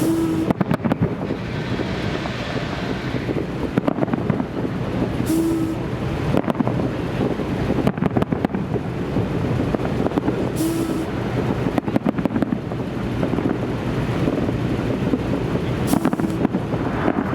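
Fireworks salute going off: a dense run of sharp bangs and crackles over a low rumble, with wind on the microphone.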